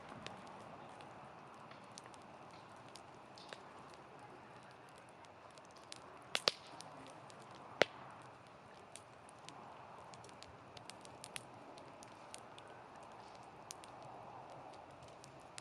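Wood fire burning: a soft, steady rush of flame with scattered crackles and sharp pops, the loudest a pair about six seconds in and a single one about two seconds later.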